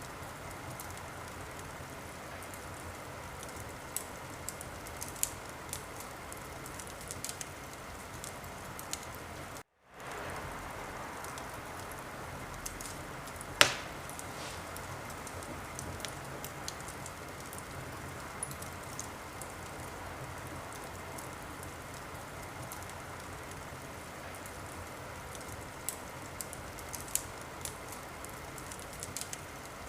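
Wood fire burning in a fireplace: a steady hiss with scattered small crackles and one loud pop about fourteen seconds in. The sound cuts out for a moment near ten seconds in.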